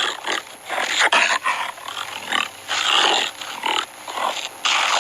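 Jaguar growling in a rapid run of rough, noisy bursts of uneven length.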